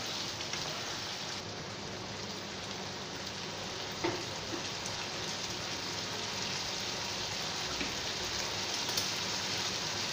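Diced ridge gourd and potato frying in mustard oil in a pan, a steady sizzle, with a light knock about four seconds in.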